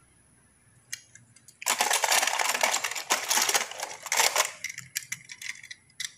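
Diecast toy cars clattering against each other and the plastic basket as a hand rummages through them: a dense rattle of about three seconds, with a single click before it and a few more near the end.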